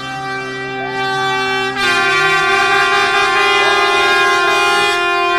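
Long, loud brass-like horn tones held as steady chords, stepping to a new pitch about two seconds in.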